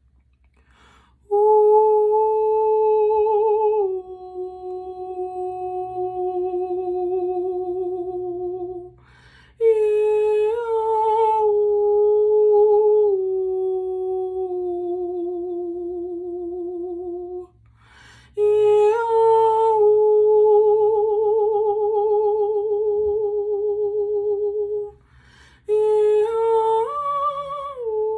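A woman's voice toning wordless sacred sounds: four long held notes, each stepping a little lower in pitch, with a breath drawn before each one.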